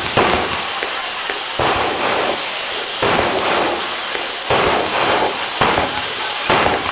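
A jet turbine engine on a drag-racing car running with a steady, high-pitched whine, with irregular gusts of rushing noise over it.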